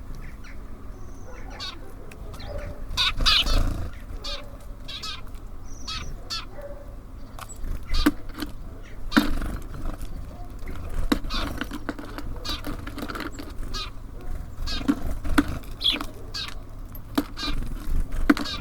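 Birds at a feeder: scattered short chirps, calls and clicks, with a louder rustling patch about three seconds in.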